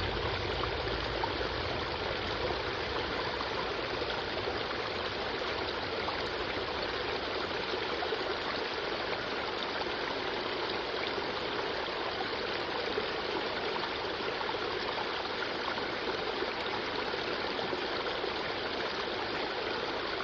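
A small creek flowing steadily over rocks, a continuous rushing and trickling of water.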